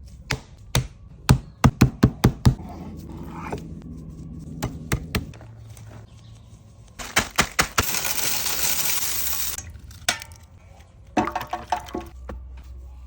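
Kitchen prep knocks: a quick run of sharp knocks like a knife chopping on a wooden board, a few more later, and about two seconds of hissing about two thirds of the way through.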